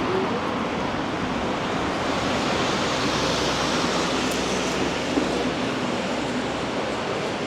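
Steady hiss of rain and road traffic on a wet street, with a vehicle's low rumble swelling and fading about halfway through.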